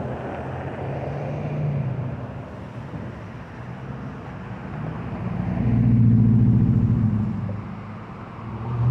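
A motor vehicle's engine running as a steady low hum, which swells loudest about six seconds in and then fades.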